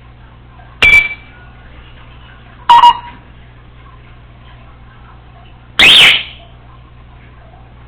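Congo African grey parrot giving three short, loud, piercing calls a couple of seconds apart; the last is a little longer, its pitch sweeping up and back down.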